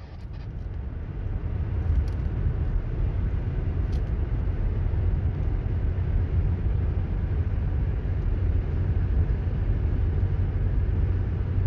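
A motor engine running steadily: a low rumble with a constant hum, building over the first second or two and then holding level.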